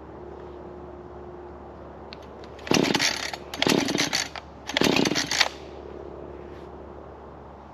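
Husqvarna 440 two-stroke chainsaw idling with a faint steady note, then opened up to full throttle in three short bursts about a second apart, before settling back to idle.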